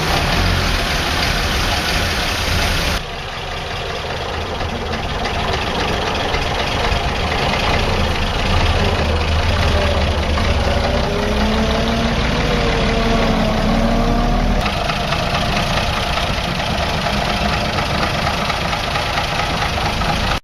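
1932 Leyland Cub truck's six-cylinder side-valve petrol engine running at idle just after starting, a steady low running sound. The level drops about three seconds in, and a wavering pitch rises and falls in the middle.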